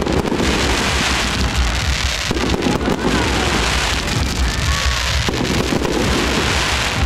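Fireworks display going off: a dense, continuous crackling and popping over low booming rumble.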